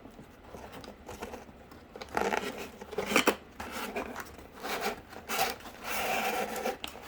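Cardboard scraping and rubbing in short irregular bursts as a piece is worked and pushed into place, with a sharp snap about three seconds in.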